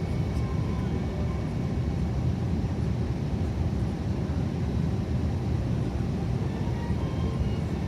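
Steady rumble of an Airbus A321neo in flight, its engines and airflow heard from inside the passenger cabin.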